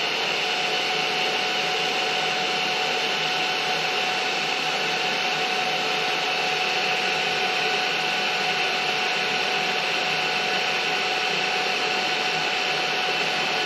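Shop machinery running steadily: an even whine with a few steady tones over a hiss.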